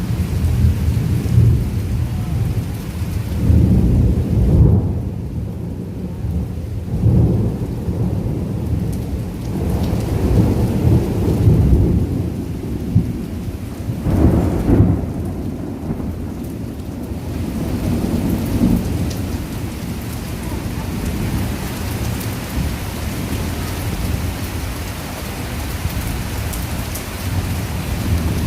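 Heavy rain with thunder rumbling low, swelling and fading several times in the first half; after that the rain goes on as a steady, even hiss.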